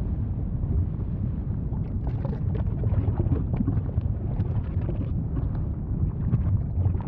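Volcano rumbling steadily and deep, with a scatter of short crackles and pops from about two seconds in.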